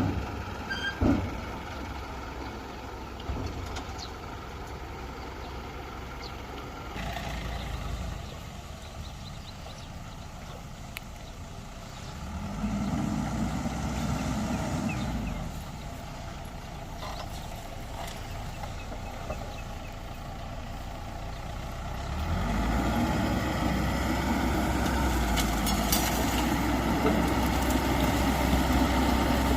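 Diesel engine of heavy construction machinery running, working harder and louder for a few seconds partway through and again over the last third.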